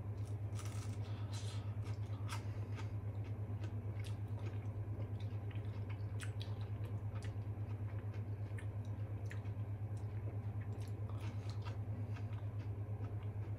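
A person biting into and chewing a battered pollack fillet, with scattered soft crunching clicks, over a steady low hum that pulses rapidly.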